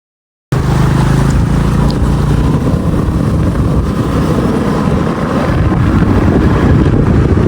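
Motor scooter engine running steadily while riding, cutting in abruptly about half a second in.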